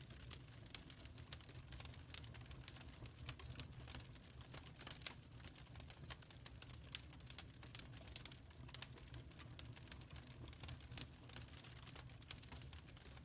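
Wood fire in a firepit crackling: faint, irregular small pops and snaps, with one sharper pop about seven seconds in, over a low steady rumble.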